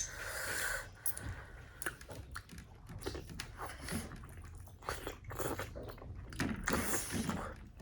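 A person chewing momos (dumplings) close to the microphone, with irregular soft mouth clicks and smacks and a few brief slurping noises.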